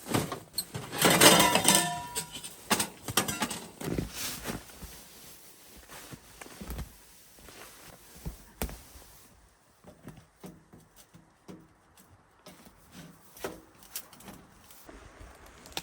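Firewood being handled: logs knocking and clattering against each other, loudest about a second in, then a few separate knocks and a sharp one about eight seconds in before it goes mostly quiet.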